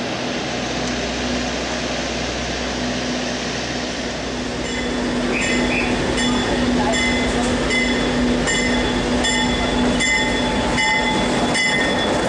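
PeruRail diesel train running, a steady drone with rail noise. About four and a half seconds in it grows louder, and a regular ringing beat comes in, roughly three strikes every two seconds.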